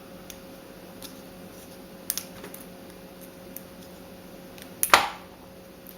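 Small plastic clicks and ticks as needle-nose pliers grip and twist the stud off the back of a plastic keyboard keycap, with a sharp double click about two seconds in and a much louder click about five seconds in.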